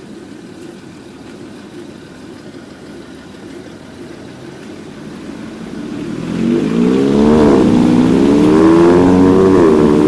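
Car engine accelerating close by, starting about six seconds in, loud over a steady low traffic rumble; its pitch rises, dips and rises again.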